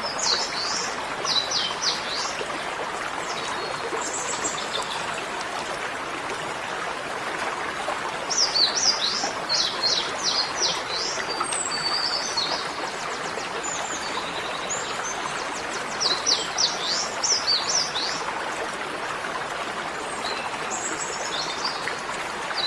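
Small birds chirping in bursts of quick, high, down-sweeping notes, about a second in, again around eight to eleven seconds and sixteen to eighteen seconds, over a steady rushing hiss.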